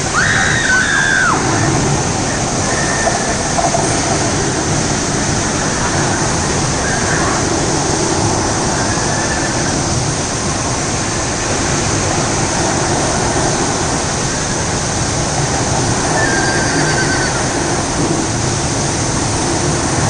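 Artificial waterfall: a steady rush of falling water.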